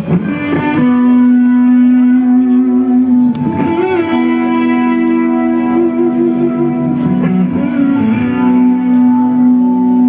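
Live band music without vocals: an electric guitar holds long sustained notes, moving to a new pitch a few times.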